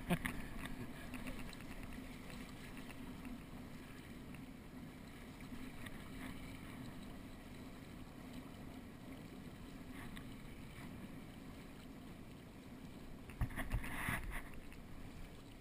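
Steady rush of water along a small sailboat's hull, with wind on the microphone, and a louder burst of noise about two seconds before the end.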